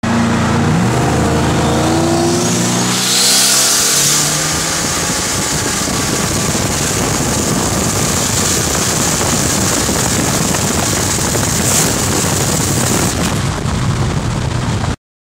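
Vehicle engine at full throttle, its pitch rising over the first two seconds, then a hissing burst about three seconds in. After that comes a steady loud rush of engine and wind at high speed, which cuts off suddenly near the end.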